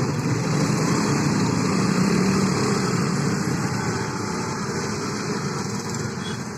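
Steady vehicle rumble and noise, slowly fading toward the end.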